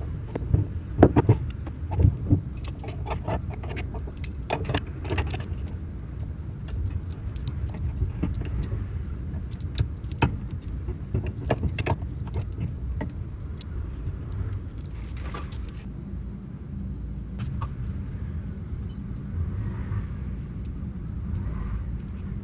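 Metal clamps and tools clinking and knocking in irregular sharp taps as they are handled and fitted along a cracked piano bridge being glued, over a steady low rumble.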